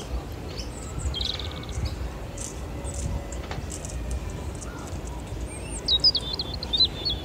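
Small birds chirping and twittering over a steady low outdoor rumble, with a quick run of high warbling notes near the end and a few soft low thumps.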